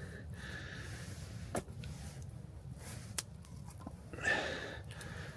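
Wood fire burning with a steady low rumble and a few sharp crackles, with a short breathy hiss about four seconds in.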